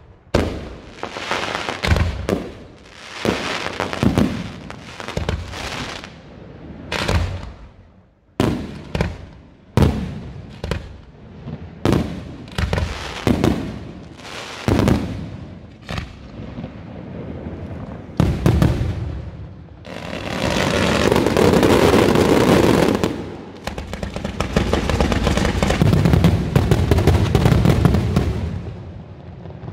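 Aerial fireworks shells bursting overhead in quick succession, each bang trailing off. From about twenty seconds in, the bursts run together into a continuous dense barrage.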